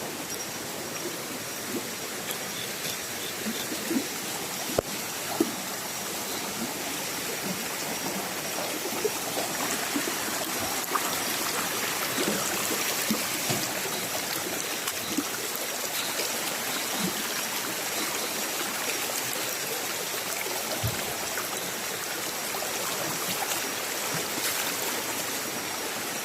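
Stream water running steadily, with a few small knocks and splashes.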